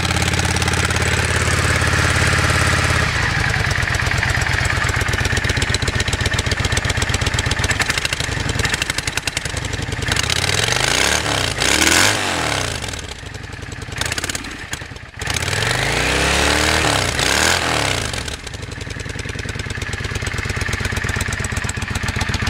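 1998 Yamaha V-Star 650's V-twin running through its stock exhaust with holes drilled in it, a sound the owner calls loud and cheap. It idles fast on a cold start, settles to a lower idle about three seconds in, and is revved up and back down twice, around ten and sixteen seconds in.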